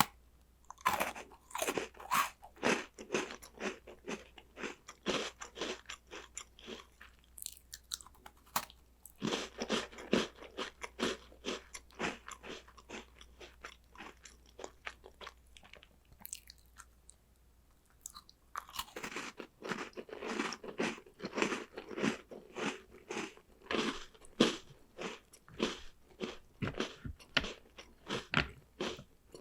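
Close-up crunching and chewing of crisp chocolate snacks, in three runs of rapid, sharp crunches with short quieter gaps between them, the longest gap just before the last run.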